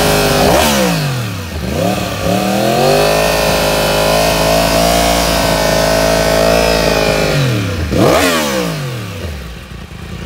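Yamaha R1 inline-four through a Hindle carbon full-system race exhaust, revving hard and held at high revs; about half a second in the revs drop sharply and climb back, hold steady, then drop again near the end and the sound eases off.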